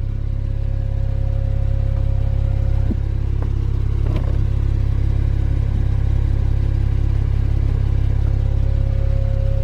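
A Porsche 911 Turbo's twin-turbocharged flat-six idling steadily, a low even rumble. A few light clicks come about three to four seconds in.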